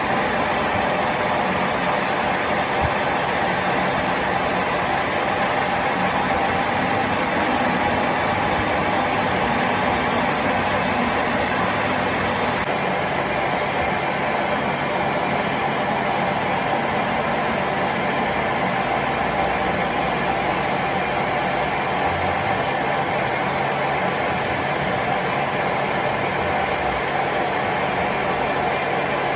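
A machine running steadily: a constant mechanical drone with a few steady tones under a dense rushing noise.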